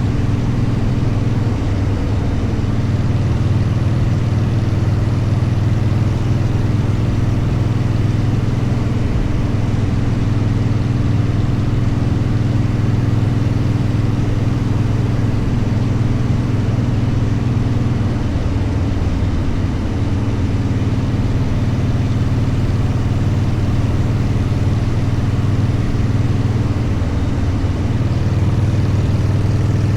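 Motorcycle engine running steadily while riding, over a constant noisy hiss. The engine note eases off about two-thirds of the way through, then picks up again.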